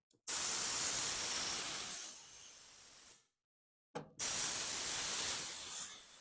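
Compressed-air blow gun blowing out a lawn mower's fuel tank to clear debris: two blasts of hiss, the first about three seconds long, the second about two, with a short silence between.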